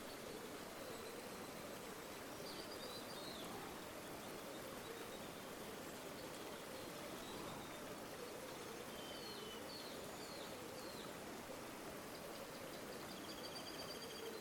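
River water flowing steadily and faintly, with a small bird chirping over it a few times: a short call in the first few seconds, a quick run of chirps later on, and a trill near the end.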